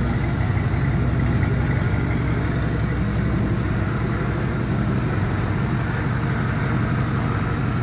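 Chevy 5.3-litre Vortec LS V8 (LM7) idling steadily as it warms up on an engine run stand. It runs smoothly, with no clattering or squeaking.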